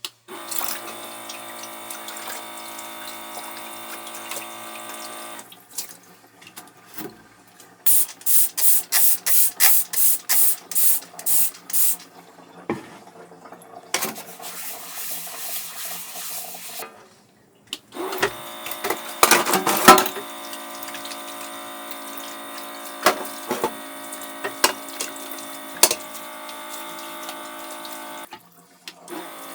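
Water running from a tap into a small sink, with a steady motor hum under it, stopping and starting a few times. About a third of the way in comes a run of quick, even strokes, about three a second for four seconds.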